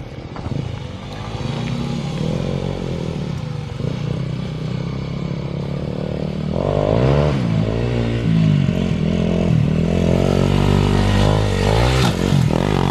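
Dirt bike engine running and revving, its pitch swinging up and down. It is louder from about halfway through.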